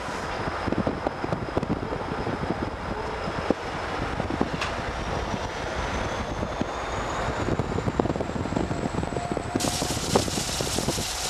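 A train passing at track side, its wheels clattering and knocking over the rails under a steady rumble, with a thin high whine slowly rising in pitch. About ten seconds in the sound turns suddenly hissier, with wind on the microphone.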